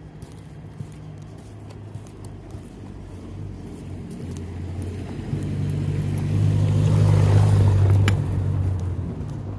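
A car driving past, its engine hum and road noise building to a peak about seven seconds in, then fading away.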